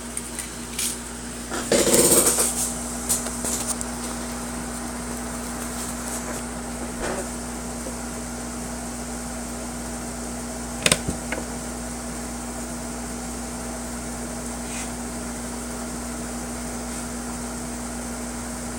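Steady electric hum of an HO-scale model locomotive's motor running under DCC control on the layout, mixed with air-conditioner noise. A brief rustle comes about two seconds in and a single sharp click about eleven seconds in.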